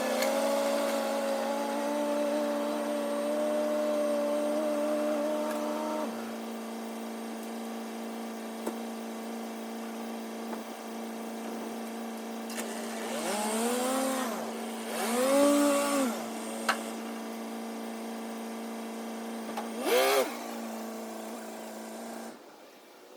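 Exmark Laser Z zero-turn mower running steadily, its pitch rising and falling twice about two-thirds of the way through and once more shortly after, then cutting off near the end.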